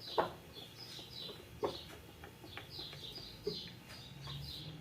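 Birds chirping in the background, a run of short high falling chirps about two or three a second. There are a few soft knocks in between.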